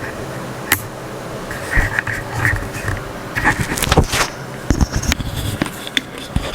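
Small electric cooling fan running with a steady buzzing hum, with knocks and clicks from handling over it, the loudest about four seconds in.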